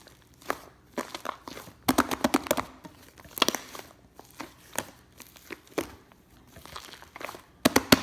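Sticky, fluffy slime being squeezed and pressed by hand, giving off clusters of sharp clicking and crackling pops, densest about two seconds in, around three and a half seconds, and near the end.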